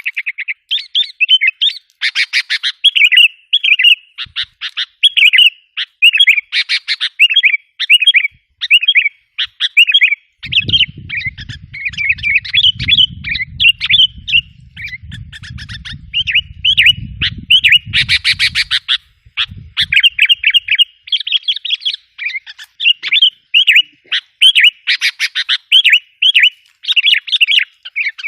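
Sooty-headed bulbuls calling in a fast, unbroken run of short chirps, with harsh rattling scolds mixed in: a bulbul lure call meant to work wild bulbuls up. A low rumble sits underneath from about ten to nineteen seconds in.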